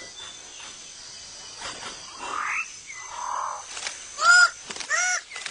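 Rainforest animal calls over a steady high hum of insects. A single rising call comes about two seconds in. From about four seconds in, loud short calls repeat in quick succession, each rising and then falling in pitch.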